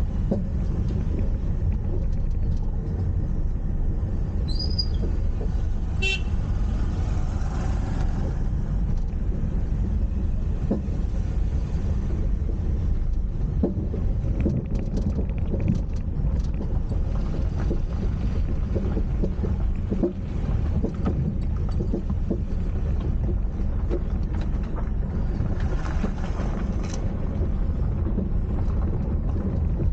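Steady low rumble of a car driving along a road, with engine, tyre and wind noise. A short vehicle horn toot sounds about six seconds in.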